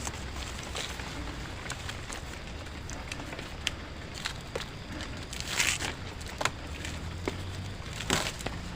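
Scattered light knocks and clicks, with two louder rustling scrapes about five and a half and eight seconds in. These are handling noises from building a camp shelter.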